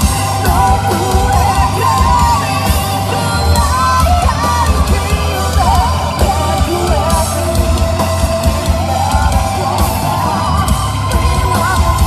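A band playing loud live rock music, with a singer's voice wavering and sliding in pitch over the full band.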